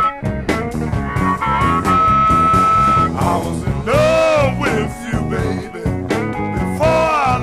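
Electric blues band playing, with bass and drums keeping a steady beat under a lead line. The lead holds one long high note, then plays bent, swooping notes about four seconds in and again near the end.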